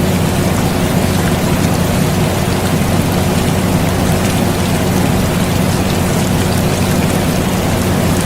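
Steady air conditioner noise, a constant low hum, mixed with an even rain hiss and faint scattered drop ticks.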